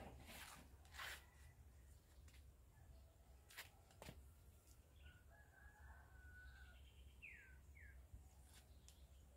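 Near silence: faint outdoor quiet with a few soft clicks in the first few seconds. Distant bird calls come in the second half: one drawn-out call, then two short falling chirps.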